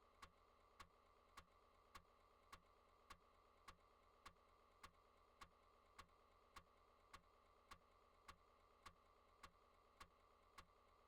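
Faint, evenly spaced clicks, a little under two a second, that stop about half a second before the end.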